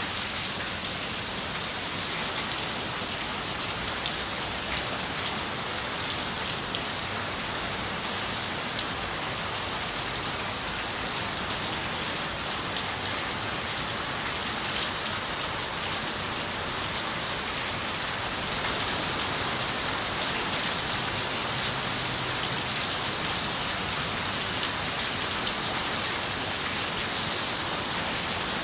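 Steady rain falling on a window, a dense even hiss with scattered sharper drop ticks; it grows slightly louder about two-thirds of the way through.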